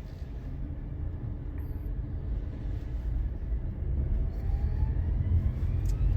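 Low, steady motor-vehicle rumble heard from inside a car, gradually growing louder, with a faint rising whine in the second half.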